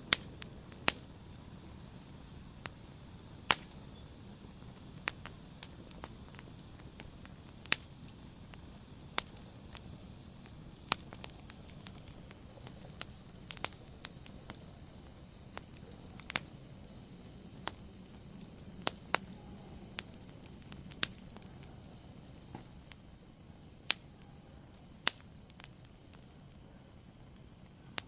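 Wood fire burning in a fireplace: a soft steady hiss with sharp, irregular pops and crackles from the logs, roughly one or two a second.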